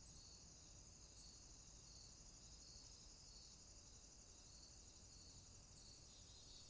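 Faint insect chorus: a steady high trill with a separate chirp repeating about twice a second, like crickets at night.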